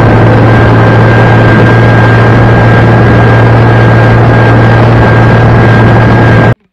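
Heavy diesel engine of a loaded hay-hauling vehicle running steadily under load, a deep hum with a thin steady whine above it. It cuts off abruptly near the end.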